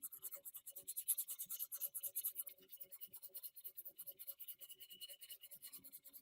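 Fast, even back-and-forth rubbing strokes on a fan part, about eight a second, scratchy, easing a little after about two and a half seconds.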